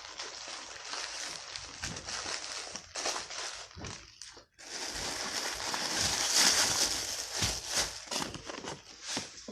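Paper crinkling and rustling as a Subway sandwich bag and wrapper are handled, growing louder for a couple of seconds around the middle.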